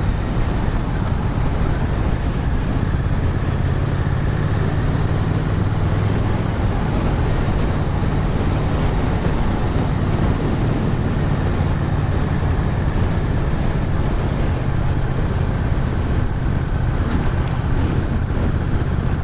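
Motorcycle engine running at a steady cruise, a constant low drone under wind and road noise on the helmet camera's microphone.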